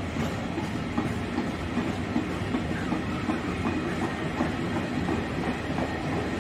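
Freight train's hooded wagons rolling past at steady speed: a continuous rumble of steel wheels on the rails, with scattered clicks from wheels crossing rail joints.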